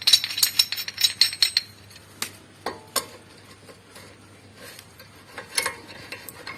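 Metal clinking from a ball joint puller and hand tools being fitted onto a ball joint: a quick run of sharp clicks over the first second and a half, then a few scattered single clinks.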